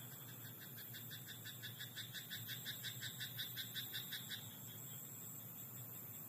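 A frog calling a rapid run of croaks, about six or seven a second for some four seconds, growing louder towards the middle and then stopping abruptly. A steady high hiss lies underneath.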